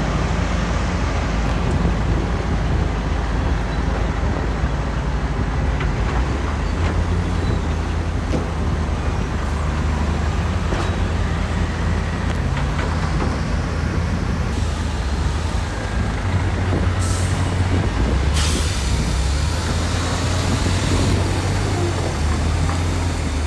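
Heavy diesel earthmoving machinery running steadily, its low engine note shifting a little as the load changes. A short hiss comes about 17 seconds in, then a longer one lasting a few seconds.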